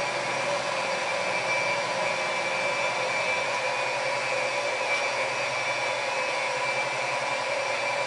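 Mitsubishi Delica D:2 S compact minivan's engine idling at a steady, even speed, with its exhaust note heard at the tailpipe.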